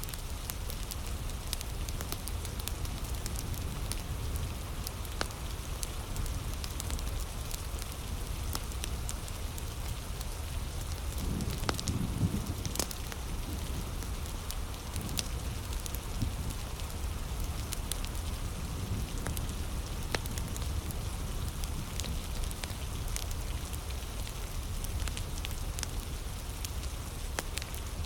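Heavy rain falling steadily over a crackling wood fire, with sharp pops and snaps scattered throughout. A brief low rumble swells about twelve seconds in.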